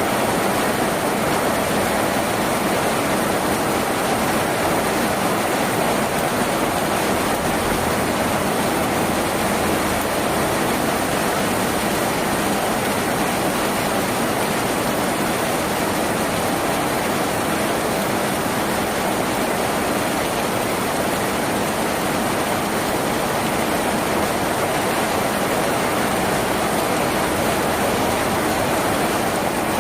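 Rain falling steadily on a tin roof, an even hiss of water with no pauses or changes.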